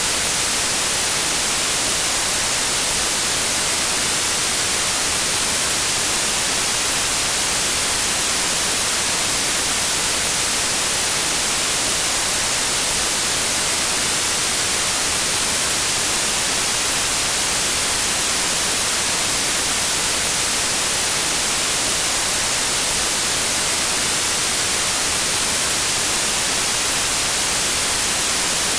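Steady white noise: an even, unbroken hiss with no change in level or pitch, brightest in the high treble.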